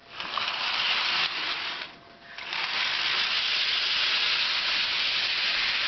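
Battery-powered Thomas the Tank Engine toy train running along its track with a steady hissing whir, briefly dropping away about two seconds in.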